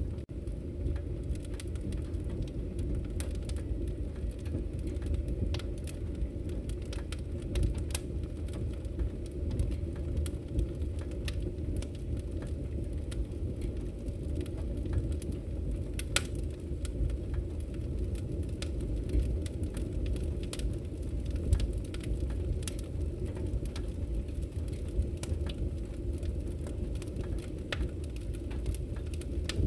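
Campfire crackling: a steady low rumble of burning wood with many scattered sharp pops and snaps.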